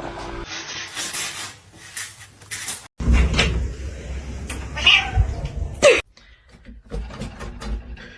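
Cat meowing, with a call that slides down in pitch about six seconds in, amid household knocks and rustling, cut together from several short clips.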